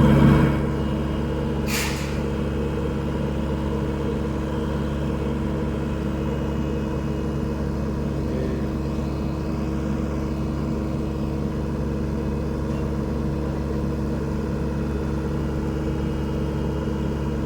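SANY SY75C Pro excavator's diesel engine running steadily and smoothly, dropping from a louder level in the first half second, with one short hiss about two seconds in.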